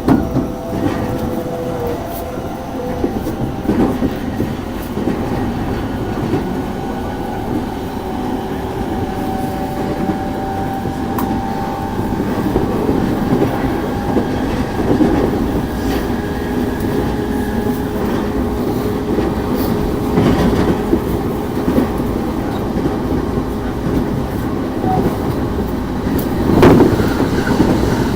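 Cabin sound of an E233-1000 series electric train running: a steady rumble of wheels on rail, with a thin electric motor whine and occasional clacks at rail joints, one stronger clack near the end. Recorded through a flip phone's microphone.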